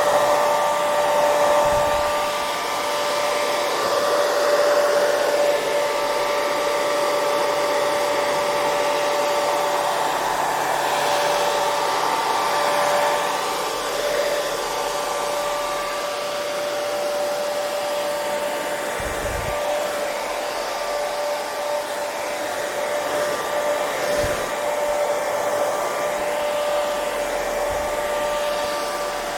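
Electric hair dryer running continuously: a steady rush of blown air with a whining motor tone held throughout.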